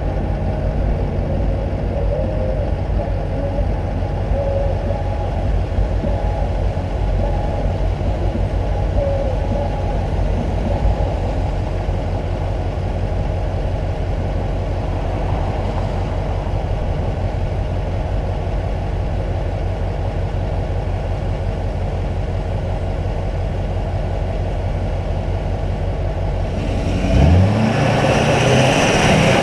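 Twin-turbo LLY Duramax 6.6-litre V8 diesel (SDP kit, billet S475 over the stock turbo) idling steadily, then revved up sharply near the end.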